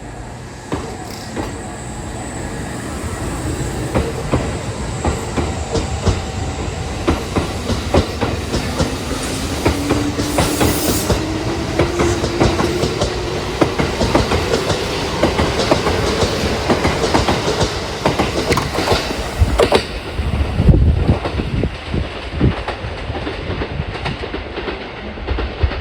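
Kintetsu 9200- and 5200-series electric train running out on the Osaka Line, its wheels clattering rhythmically over the rail joints while a motor whine rises steadily in pitch as it picks up speed.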